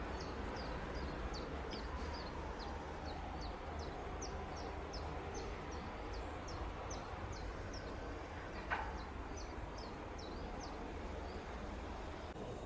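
A small bird calling over and over in short, high, downward-sliding chirps, about two or three a second, with a single sharp click about two-thirds through, over a low steady outdoor rumble.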